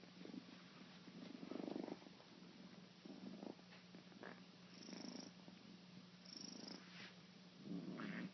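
Kitten purring steadily, swelling louder with each breath about every one and a half seconds.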